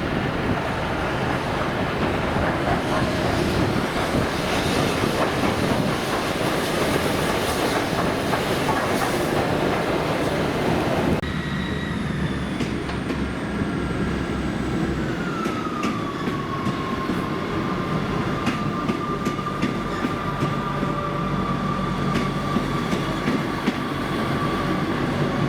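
Train running along the rails, a dense loud rush with wheel clickety-clack. About 11 seconds in the sound changes abruptly to a slower-moving train with a high squeal that drops in pitch and then holds steady, over scattered clicks from the wheels on the track.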